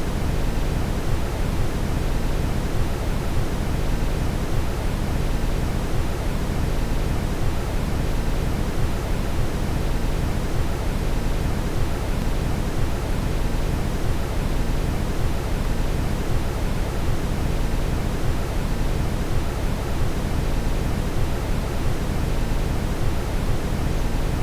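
Steady brown noise: an even, deep rushing hiss, strongest in the low end, with no change. Any subliminal affirmations beneath it are not heard as words.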